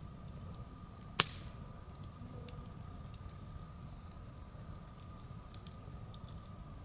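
Wood bonfire crackling, with scattered small ticks and one sharp loud pop about a second in, over a low steady rumble.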